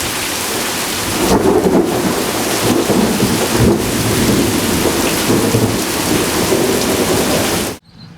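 Loud, heavy rain with low rumbling thunder, cutting off suddenly near the end.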